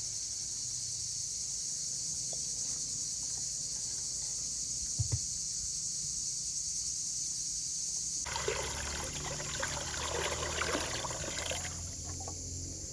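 Steady high chirring of insects; about eight seconds in, some three seconds of water splashing and trickling, as when water is poured.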